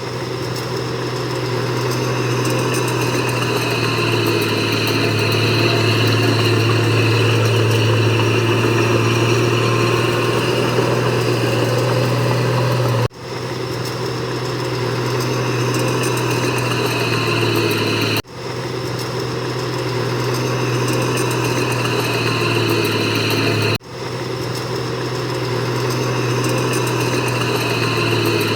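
Diesel engine of heavy earthmoving machinery running steadily with a deep hum. The sound cuts off abruptly three times and comes straight back.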